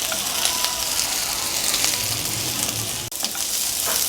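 Capsicum, onion and garlic sizzling in oil in a kadai over high heat while being stirred: a steady frying hiss with scattered small clicks and scrapes.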